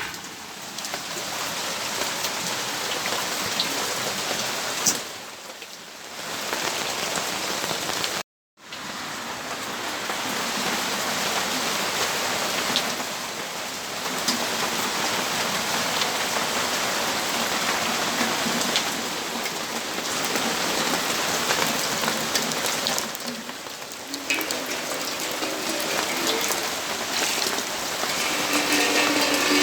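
Steady rainfall: an even hiss of rain with drops striking surfaces. The sound cuts out completely for a moment about eight seconds in.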